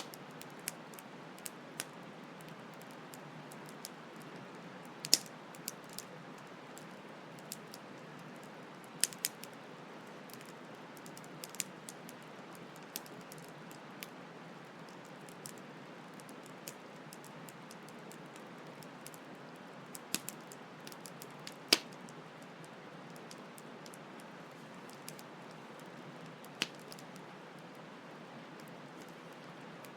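Campfire crackling, with irregular sharp pops and snaps, the loudest a few seconds apart, over a steady hiss of flowing stream water.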